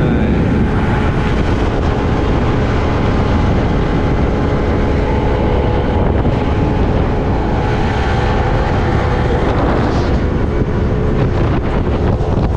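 Vehicle engine running steadily while under way, a constant low drone with no breaks.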